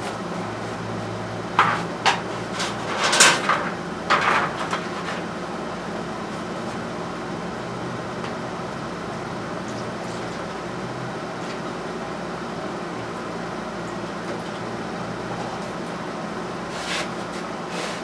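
Several knocks and clatters of objects being handled, about two to five seconds in, with one more near the end, over a steady background hum.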